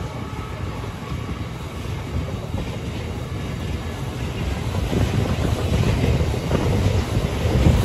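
Freight wagons loaded with steel coils rolling past on the rails: a steady noise of wheels on track, growing louder about five seconds in.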